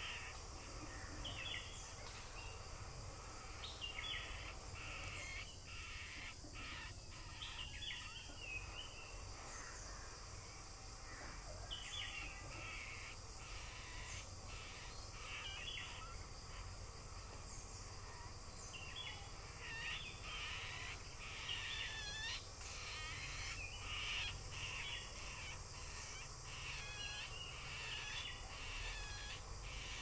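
Birds calling in forest: short, harsh calls repeated in bouts, sparse at first and coming thick and fast in the second half, over a steady low rumble.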